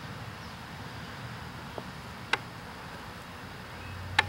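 Steady low background hum, with two sharp clicks: one a little past halfway and one near the end.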